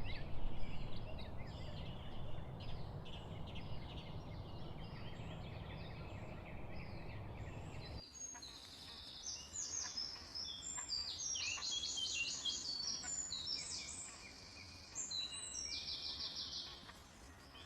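Several wild songbirds singing in a forest, with quick chirps and rapid trills of repeated notes. A steady low rushing noise lies under them at first and stops suddenly about eight seconds in, after which the birdsong is higher and louder.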